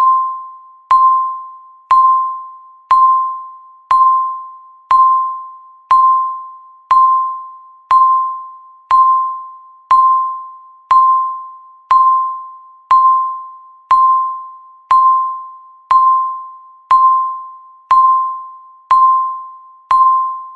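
Electronic timer beep, a single tone near 1 kHz sounding once every second, each beep starting sharply and fading out before the next. It ticks off the final seconds of a countdown.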